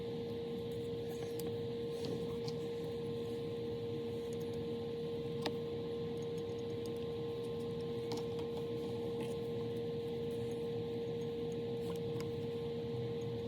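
A steady hum holding one pitch, with a few faint clicks scattered through it.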